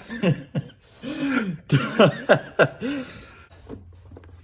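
A man's short, wordless vocal sounds, about ten in quick succession over the first three seconds, likely effort grunts as he works loose a stubborn fuel line.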